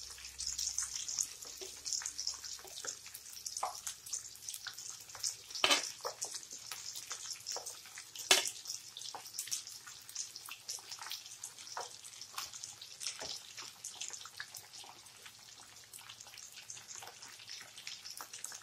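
Breaded chicken drumsticks deep-frying in hot oil while more pieces go into the pan: a steady sizzle with many small crackles and pops throughout, and two louder pops about six and eight seconds in.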